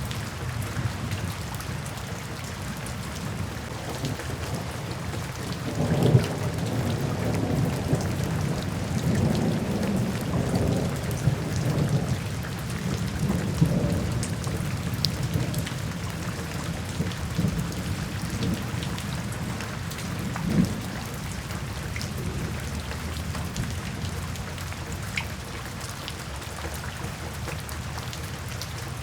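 Steady rain falling into puddles and standing water, with a roll of thunder breaking about six seconds in. It rumbles on in swells for several seconds, gives a last swell around twenty seconds, and fades back to the rain.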